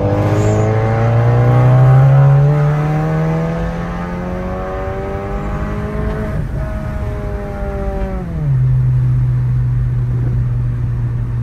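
MK7 Golf GTI's turbocharged 2.0-litre four-cylinder, fitted with a Mamba GTX3071R turbo, pulling hard under full throttle on a data-log run, the engine pitch climbing for about six seconds. About eight seconds in the revs drop sharply as the pull ends, then the engine runs on at a steady lower pitch.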